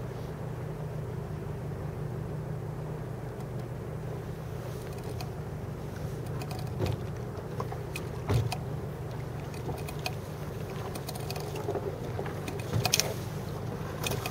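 A small boat's engine running steadily with a low hum. From about five seconds in, scattered clicks and knocks sound over it, the loudest near the middle and near the end.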